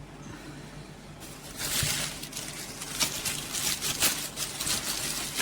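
Packaging rustling and crinkling as it is pulled off and handled, with a few light knocks among it, starting about a second in.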